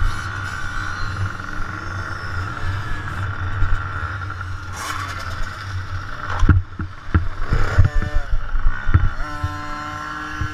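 Motocross dirt bike engines running, with the pitch rising and falling as they rev in the second half, and a few sharp thumps around the middle.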